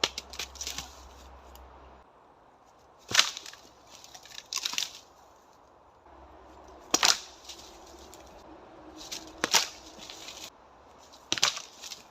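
Karate strikes landing on dry, dead tree trunks: about six sharp knocks a couple of seconds apart, some followed by brief crackling.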